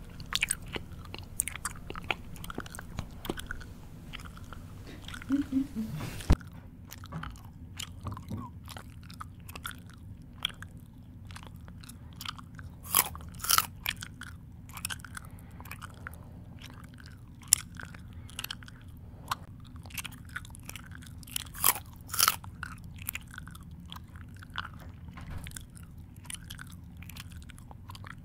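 A person chewing food with their mouth open, giving irregular crisp crunches and smacking mouth clicks.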